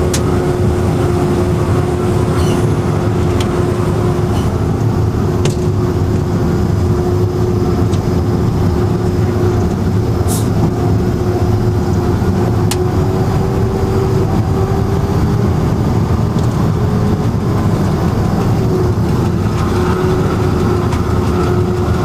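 Diesel locomotive engine running steadily at idle, a constant low rumble with a held humming tone, and a couple of short clicks partway through.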